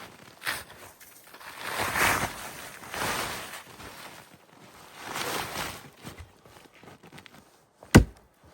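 A few crunching footsteps in snow, then one sharp knock near the end.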